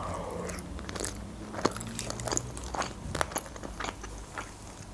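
A person chewing a mouthful of lasagna close to the microphone: irregular mouth clicks and smacks, a few a second.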